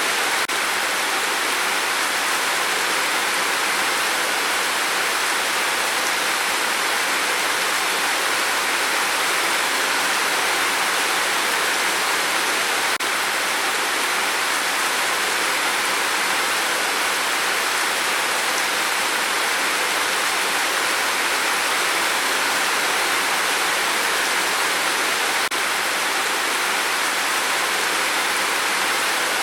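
Rain falling on a tin roof, a steady, even hiss of drops with no let-up.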